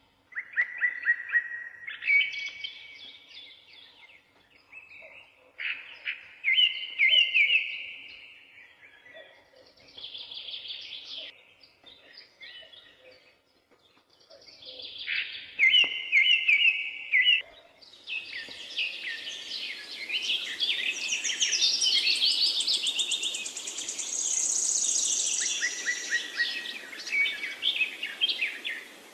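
Songbirds singing in short, repeated trilled and warbled phrases. About two-thirds of the way through, a steady hiss comes in and the song grows denser, as from several birds at once.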